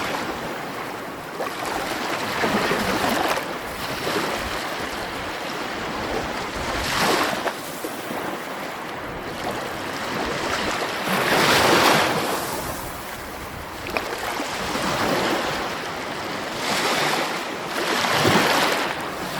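Sea waves breaking and washing on a shore, a steady surf with a surge every few seconds, the biggest about twelve seconds in.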